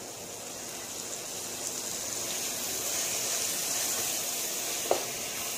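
Onions, tomatoes and ginger-garlic paste sizzling in hot oil in a pan, growing gradually louder, with one short clink of the stirring utensil near the end. This is the stage where the ginger-garlic paste is fried until its raw smell goes.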